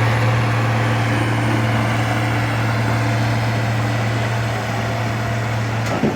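A diesel engine idling steadily, with a deep, even drone. A single sharp knock comes just before the end.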